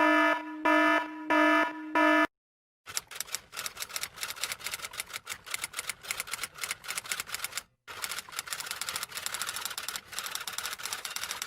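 Four short, loud electronic beeps, like an alarm buzzer, then a brief gap and a long run of rapid typing: fast, irregular key clicks.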